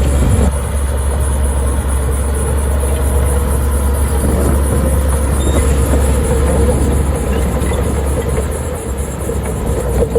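Heavy diesel earth-moving machinery working: an engine running steadily with a deep low drone and a steady mid-pitched tone, rough clattering noise over it.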